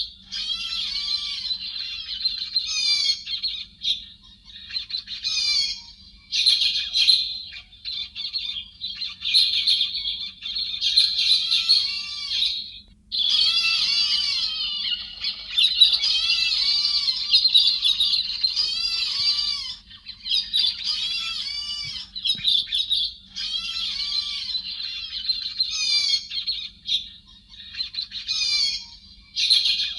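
Lure recording of chim héc xoan calls: bouts of rapid, chattering, squawky notes a few seconds long, broken by short pauses.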